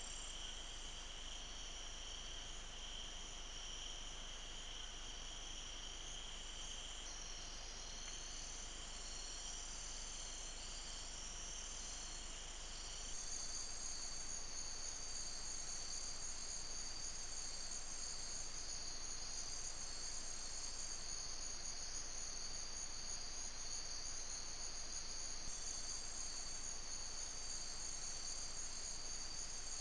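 Rainforest insect chorus: several insects calling at once in steady high-pitched trills, one of them pulsing. About 13 seconds in, the lowest-pitched caller stops and the chorus gets a little louder.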